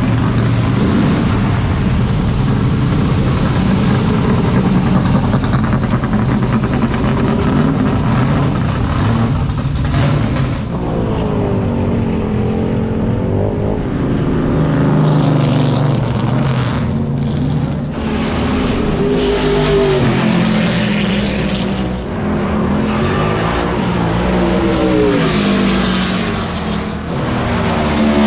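NASCAR stock cars' big V8 engines running loud together. From about ten seconds in they are revved up and down again and again, several rising and falling revs overlapping.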